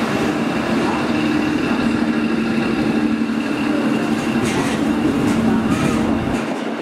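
A train running on the line: a steady rumble with a two-note hum and faint rail clicks, the low rumble dropping away just before the end.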